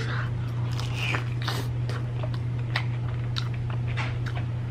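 Cheese-sauce-dipped fried chicken with crispy breading being bitten into and chewed: irregular crisp crunches and wet mouth sounds, over a steady low hum.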